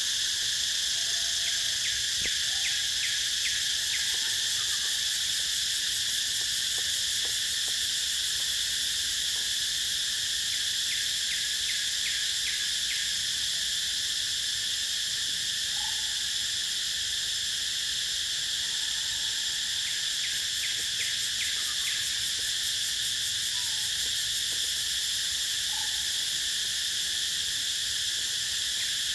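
Steady, high-pitched chorus of insects, with short runs of rapid clicking that recur about every nine seconds. A few faint short chirps rise above it now and then.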